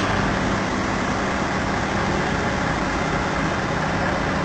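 Heavy diesel engine running steadily with a constant low drone.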